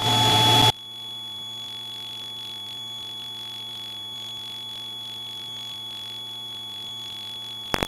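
Cockpit audio of a Cessna 172 taxiing: a burst of engine and cabin noise cuts off suddenly under a second in, leaving a steady high-pitched electrical whine over a faint hum.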